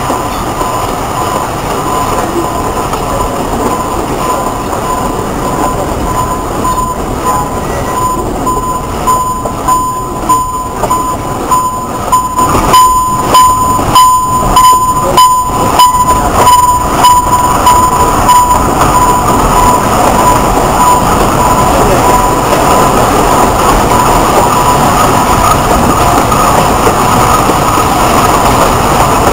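Alishan Forest Railway train running on the mountain line: steady running noise with a steady high whine, and the wheels clicking over rail joints about twice a second for several seconds in the middle.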